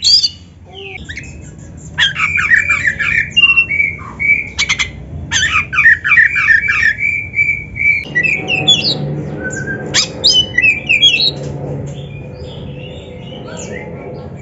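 Oriental magpie-robin (kacer) singing: fast runs of rapidly repeated chattering notes, then sparser, sharper whistled and rasping notes in the second half, over a low steady hum.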